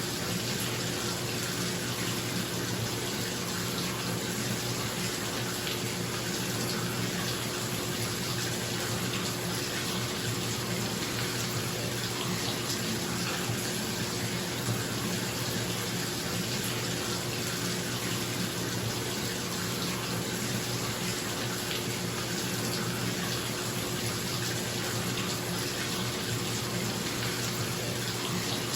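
Bathtub tap running steadily, water pouring into the filling tub, with a bathroom exhaust fan's steady hum underneath.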